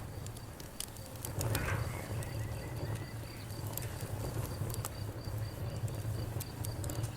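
Wood fire crackling, with scattered sharp pops and snaps over a steady low rumble. A faint, evenly pulsing high chirp runs underneath.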